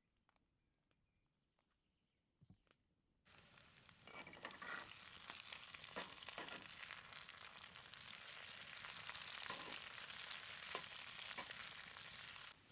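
Ossobuco beef shank sizzling and crackling in a hot pan over an open fire. The sizzle cuts in suddenly about three seconds in, after a nearly silent start with a few faint clicks, and stops abruptly near the end.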